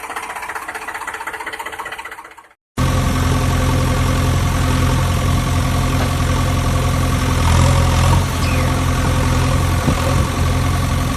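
An engine running with a fast, knocking rhythm that cuts off abruptly about two and a half seconds in. After a brief silence a steadier, deeper engine idle takes over.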